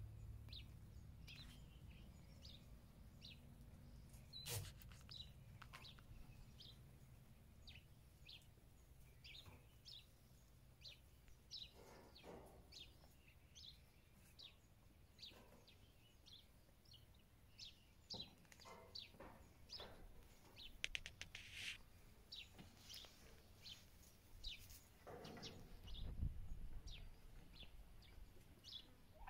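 Faint, repeated short chirps of small birds, with a few soft rustles.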